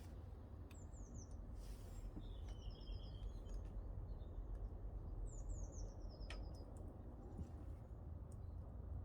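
Songbirds singing short phrases of quick, descending high chirps, about four phrases over a steady low rumble. A few faint pops come from logs burning in a cast-iron wood stove.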